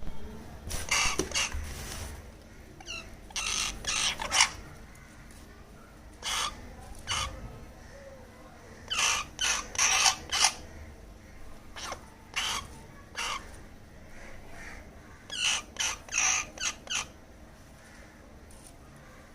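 Baby crow calling in short cawing bursts: groups of two to four calls with pauses between them, the begging calls of a young crow being fed.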